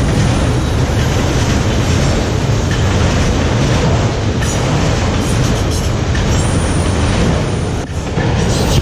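Autorack cars of a freight train rolling past close by: a loud, steady rumble of steel wheels on the rails, with occasional clacks.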